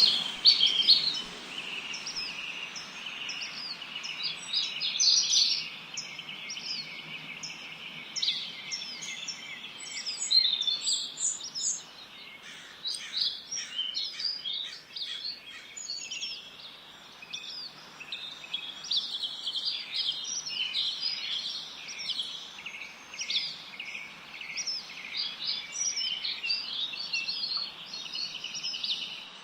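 Several small songbirds chirping and trilling continuously in quick, overlapping high-pitched phrases, over a faint steady background hiss.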